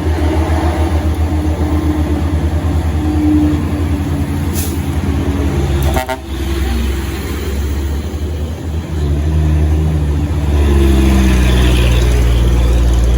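Heavy truck diesel engine labouring at low revs, with a steady low pulsing rumble. A short horn toot comes about six seconds in. Near the end the engine note rises and grows louder as it works harder.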